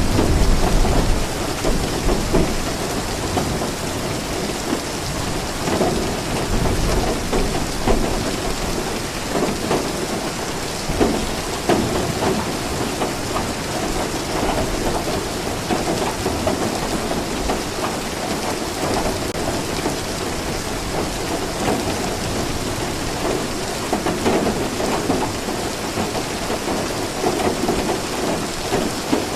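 Steady rain falling, with low rolling thunder rumbling beneath it, heaviest in the first second and again a few seconds later.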